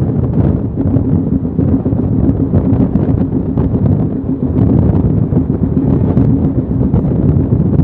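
Indian Railways passenger train running at speed, heard from on board: a steady, loud rumble of wheels on the rails, with wind buffeting the microphone.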